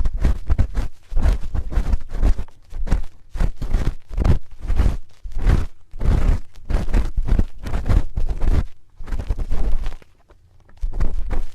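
Close-miked ASMR ear cleaning: a spoon rubbing and scraping against a microphone's ear in quick, irregular strokes with a deep rumble, pausing briefly near the end.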